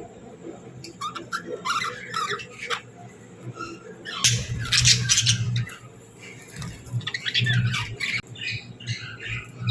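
Budgerigars chirping and chattering in quick, irregular calls, with a louder, harsher squawking stretch about four seconds in and another near eight seconds.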